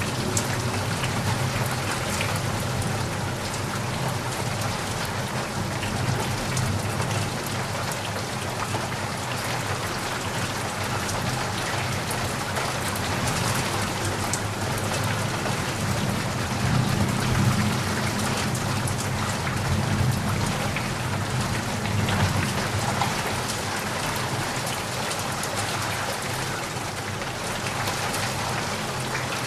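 Steady rain falling, an even hiss of drops with a low rumble that swells and fades in the middle.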